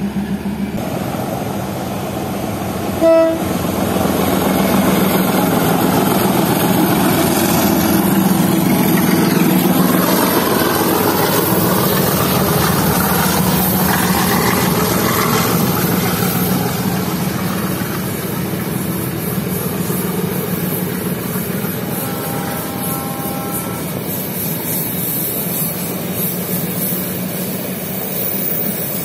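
A diesel locomotive's horn gives one short toot, then the engine drones steadily as the train rolls off. The coaches rumble and clatter over the rails, and a fainter pitched tone sounds briefly near the end.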